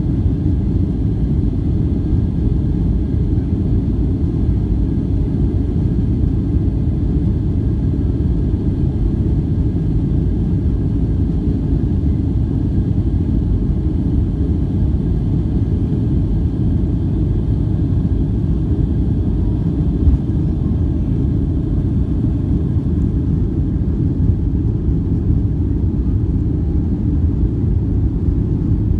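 Steady low rumble of a Boeing 757-200 airliner's engines and airflow, heard from inside the passenger cabin.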